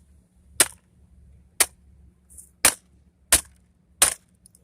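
Five sharp hammer blows on a vacuum cleaner's plastic housing, about one a second, smashing it open to get at the copper motor.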